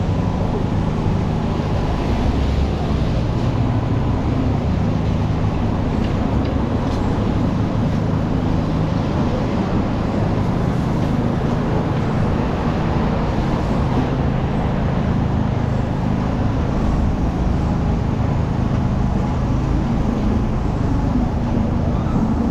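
Steady city road traffic: a continuous low rumble of passing engines and tyres, with no single vehicle standing out.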